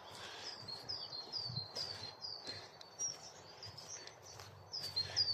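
Small woodland songbird singing a run of evenly spaced, high, down-slurred notes, about two or three a second. It pauses, then starts a second run near the end.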